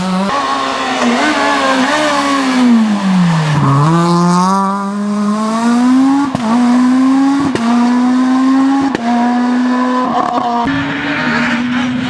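S1600 rally car's high-revving naturally aspirated 1.6-litre four-cylinder engine at full throttle. Its pitch drops as the car slows about three and a half seconds in, then climbs again through upshifts, each marked by a brief cut, about six, seven and a half and nine seconds in.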